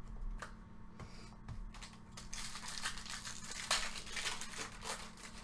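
Crinkling of a trading-card pack's foil wrapper as it is handled and opened, after a few light clicks. The crinkling grows dense about two seconds in and dies down just before the end.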